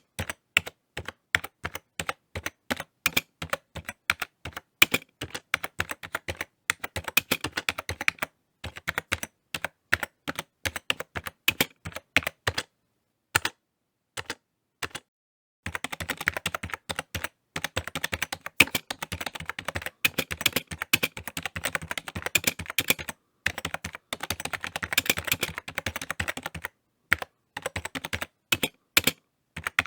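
Typing on a computer keyboard: rapid runs of key clicks with short pauses, one of about two seconds in the middle.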